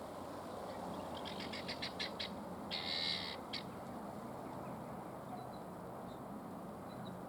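Domestic guinea fowl calling: a quick run of about eight short, clipped notes, then one longer, louder call and a last short note, over a steady low background noise.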